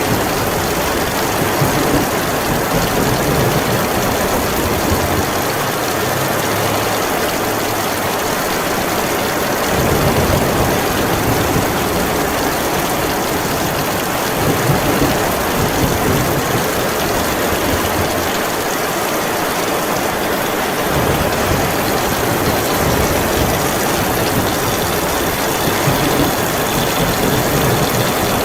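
Heavy rain pouring steadily in a storm, with a low rumble beneath it that swells about ten seconds in and again from about twenty seconds.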